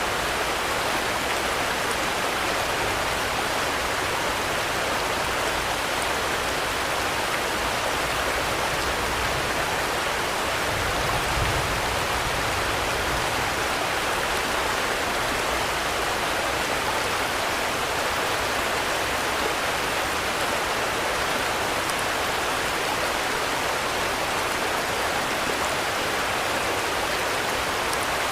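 Steady rainfall, an even rushing hiss without letup, with a brief low swell about eleven seconds in.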